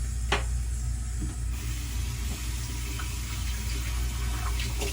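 Water running from a tap into a sink, its hiss growing about a second and a half in, with a sharp click just before.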